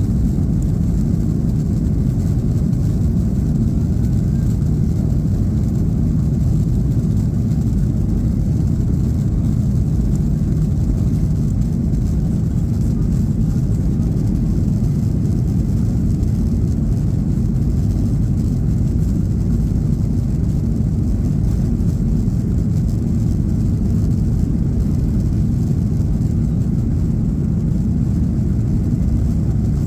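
Ryanair Boeing 737's jet engines at take-off power, heard from inside the passenger cabin as a loud, steady low rumble with a faint hiss above it.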